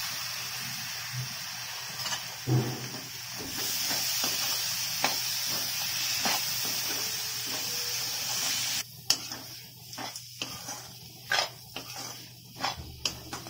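Chopped tomatoes, onions and masala frying in oil in a kadai, a steady sizzle, stirred with a steel slotted spatula that clicks and scrapes against the pan. The sizzle drops off sharply about nine seconds in, leaving the spatula's clicks and scrapes.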